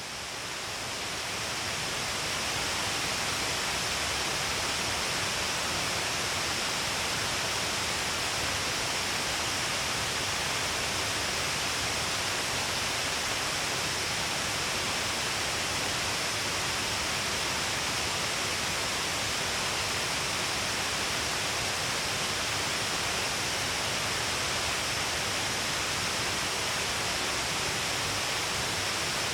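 Shiraito Falls, a wide curtain of many streams pouring down a cliff, making a steady, even rush of falling water. It fades in over the first couple of seconds, then holds constant.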